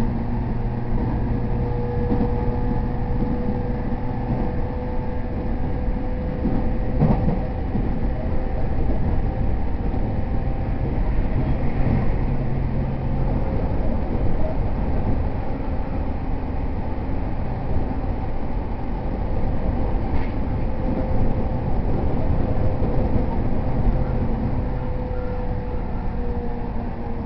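Interior running sound of an E231 series 0 commuter train under way between stations: a steady wheel-on-rail rumble with a faint steady hum, and a single knock about seven seconds in.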